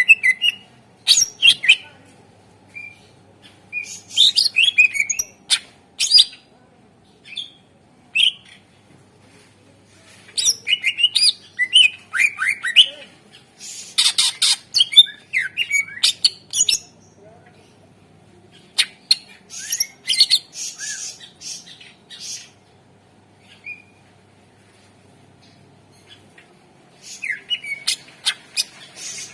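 Green leafbird (cucak ijo) singing energetically in bursts of rapid, varied chirps, whistled glides and sharp, harsh notes. The phrases are separated by pauses of a few seconds, the longest about five seconds near the end.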